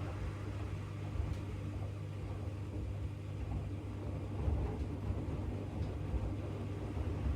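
AEG 8000 Series LR8FL160EX front-loading washing machine running its wash cycle with a load of bath mats: a steady low hum from the drum drive with a few faint clicks.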